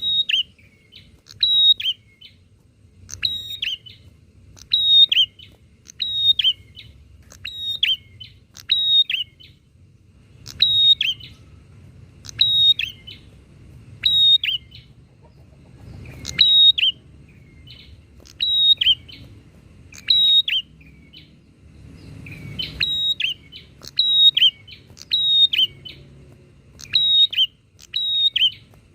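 Prenjak (prinia) calling back and forth: short, sharp, high chirping calls repeated about once a second, with a couple of brief pauses.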